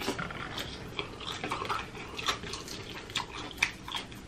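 Close-up chewing and lip-smacking on sauce-covered chicken wings: irregular wet mouth clicks, several a second.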